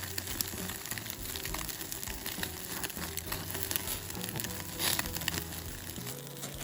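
Chicken skewers sizzling over a wood fire, with scattered crackles and pops.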